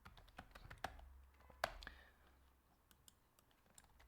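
A few faint computer keyboard clicks in about the first two seconds, then near silence.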